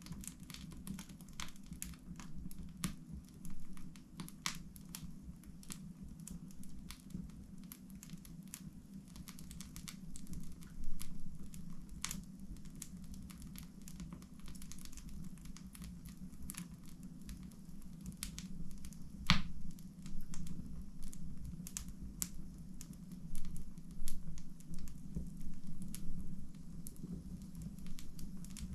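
Wood fire burning in a fireplace, crackling with irregular sharp pops over a steady low hum, one pop louder than the rest a little past halfway.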